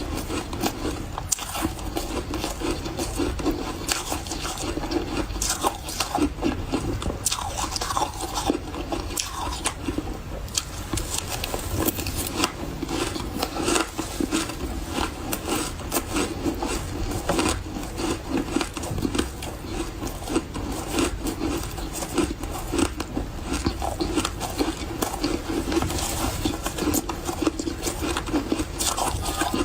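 Close-miked chewing of refrozen powdery ice, a dense run of soft crunches that goes on without a break.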